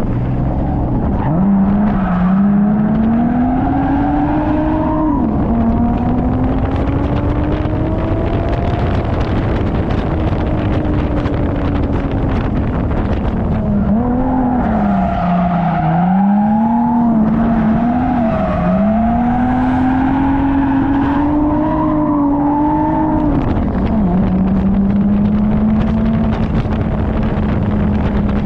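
Drift car's engine being driven hard, its pitch climbing and dropping again and again as the throttle is worked, then holding steady for the last few seconds.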